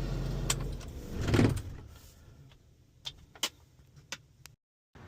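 Box truck's engine idling with a steady low hum, then shut off about a second in. A brief rush of noise follows, then a few sharp clicks and clunks from the cab, such as a door and keys.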